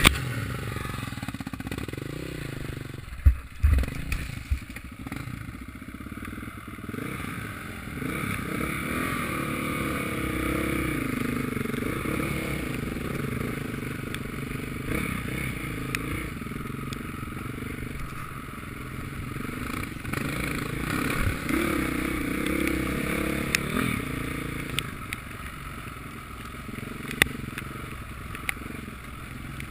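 Motocross motorcycle engines running and revving, their pitch rising and falling, with a few sharp knocks about three to four seconds in.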